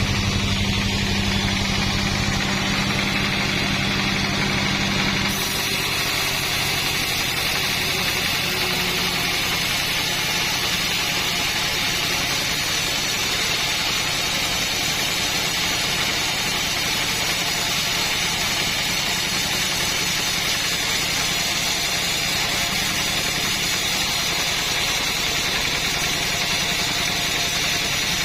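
Petrol engine of a sawing machine running steadily. About five seconds in, its low hum drops away and the sound turns higher and brighter, then holds steady.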